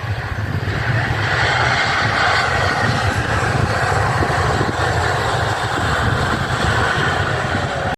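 Twin turbofan engines of an Airbus A320 airliner heard on its landing roll just after touchdown: a loud, steady jet rumble and hiss that swells slightly about a second in.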